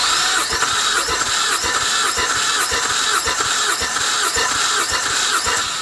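Car engine being cranked on its starter motor for a compression test of the third cylinder: a loud, steady, evenly pulsing turning-over that stops abruptly near the end.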